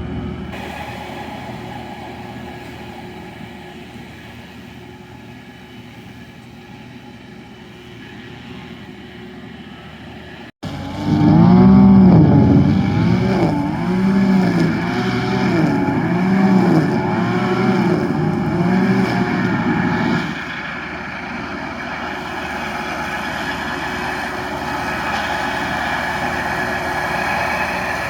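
Tractor engine running steadily, then after an abrupt cut running louder, its pitch rising and falling over and over for several seconds, before settling back to a steady drone.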